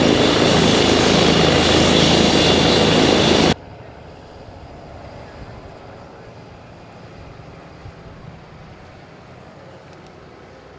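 Airbus H135 twin-turbine helicopter running close by, loud, with a steady high turbine whine over the rotor noise. About three and a half seconds in it cuts off abruptly, leaving only a faint, steady background.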